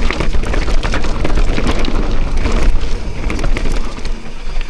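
Mountain bike clattering over a rough, rocky trail at speed, a dense run of small knocks and rattles, with wind rumbling on the microphone.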